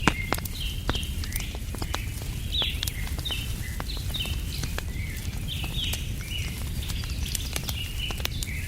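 Small birds chirping throughout, many short calls overlapping, over the scattered pops and crackle of a wood fire and a steady low rumble.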